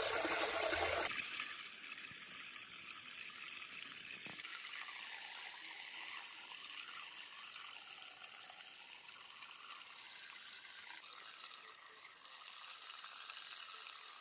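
Running water trickling steadily. It is fuller and louder for about the first second, then drops suddenly to a thinner, higher hiss.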